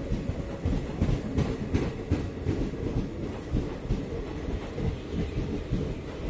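Train running on the rails: a steady low rumble with irregular clatter of the wheels over rail joints, several sharp knocks in the first half.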